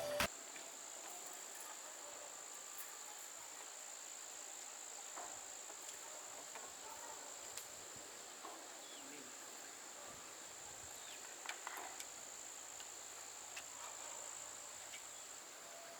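Insects making a steady high-pitched drone, with a few faint clicks and knocks scattered through it, most around the middle.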